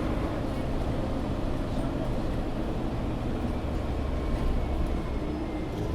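Mercedes-Benz Citaro G articulated bus running under way, heard from inside the passenger cabin: a steady low diesel rumble with road noise.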